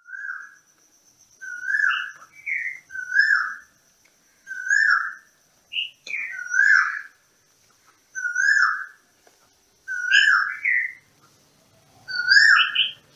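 A bird calling over and over: a short whistled note that falls in pitch, repeated about every second and a half, some followed by a quick higher note. A faint steady high tone runs underneath.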